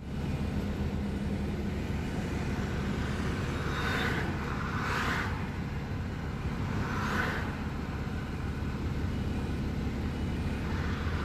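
A vehicle engine runs steadily as a low rumble, with three brief noisy swells about four, five and seven seconds in.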